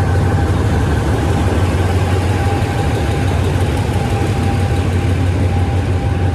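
Diesel locomotive engine idling at a station platform: a steady low hum with a faint constant whine above it.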